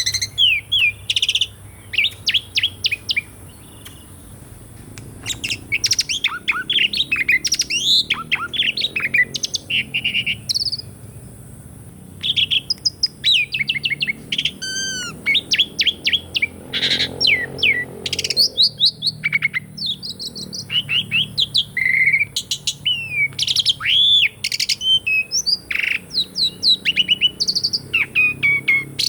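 Pied starling (jalak suren) singing a long, varied song: rapid strings of whistled notes, chattering runs and rising and falling squeals, broken by short pauses about four and twelve seconds in.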